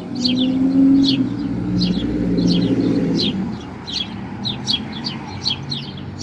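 A small bird chirping over and over in short, sharp, falling notes, about two a second. Under it, a low hum is loudest in the first half and fades out about three and a half seconds in.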